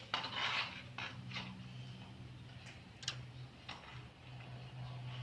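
Scattered sharp clicks and light taps of tools and parts being handled while a TV set is taken apart, over a low steady hum.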